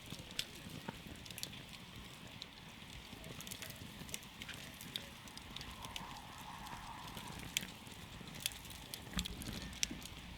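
Campfire crackling, with irregular sharp pops and snaps of burning wood over a low, steady rumble of flames.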